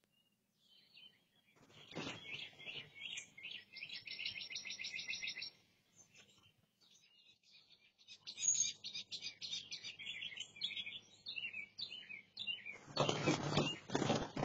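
A small bird chirping in quick runs of repeated high notes, in two spells with a silent gap of a couple of seconds between them, picked up by a video doorbell's microphone. Near the end comes a louder, fuller burst of sound.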